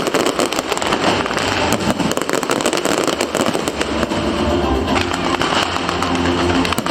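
Aerial fireworks going off in quick succession, a dense run of bangs and crackles, with music playing underneath.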